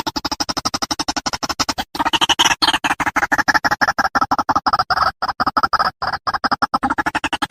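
White-breasted waterhen (ruak-ruak) calling: a fast, even run of short notes, about eight a second, louder from about two seconds in.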